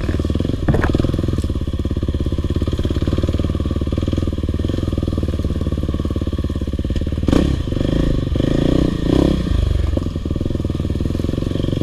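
Four-stroke single-cylinder dirt bike engine running at low, fairly steady revs. About seven seconds in there is a sharp knock, then a few seconds of uneven throttle.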